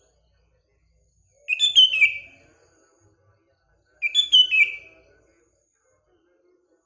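Sooty-headed bulbul (kutilang) song: two short phrases about two and a half seconds apart, each a quick run of notes stepping downward in pitch and lasting about a second.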